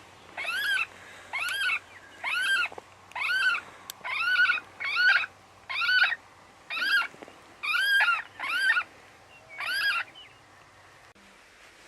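Electronic predator game call playing a looped animal distress cry: about a dozen identical rising-and-falling squalls, roughly one every 0.8 s, stopping about ten seconds in.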